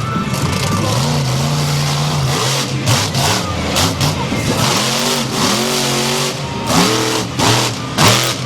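Monster truck engine running loud and revving up and down repeatedly, the revs swinging several times in quick succession in the second half.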